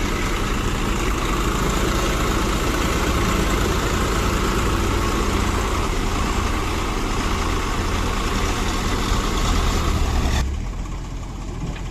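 Swaraj 855 FE tractor's three-cylinder diesel engine running steadily with a loaded trolley. About ten and a half seconds in, the sound suddenly drops and turns duller.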